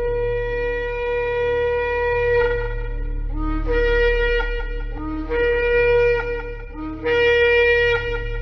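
Shofar (ram's horn) being blown: one long held blast, then three shorter blasts, each starting on a low note and jumping up to the higher one.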